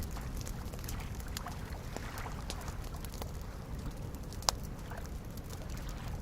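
Wood campfire crackling, with scattered sharp pops and one louder pop about four and a half seconds in, over a steady low wash of gentle lake waves lapping.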